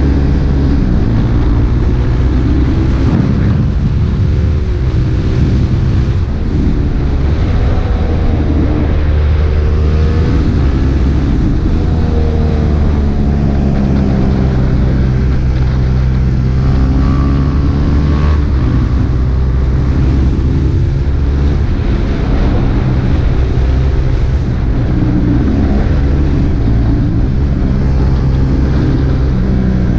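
KTM RC 390's single-cylinder engine running through an Akrapovic exhaust under way, its pitch rising and falling again and again with the throttle.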